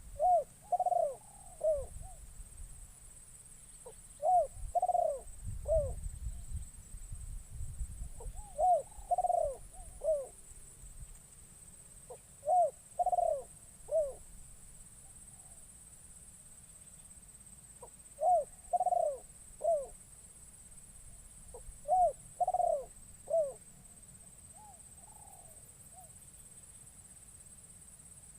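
Spotted dove (terkukur) cooing: a decoy bird repeating a short phrase of three or four notes about every four seconds, about six times, calling to lure wild doves.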